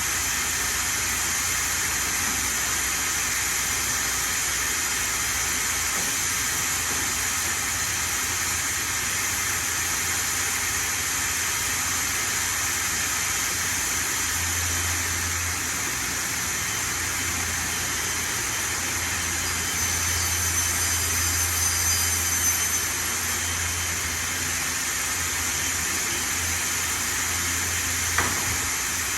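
Hendrick HM3 3200 CNC router cutting plywood: a steady, even machining noise with a faint high whine. A low hum joins about halfway through, and there is one sharp click near the end.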